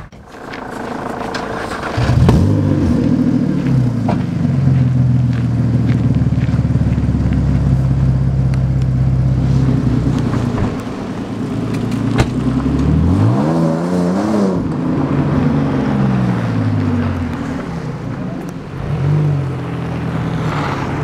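Porsche Boxster's flat-six engine running at a steady note. It is revved twice near the middle, the pitch rising and falling each time, as the car pulls away. There is a single sharp click partway through.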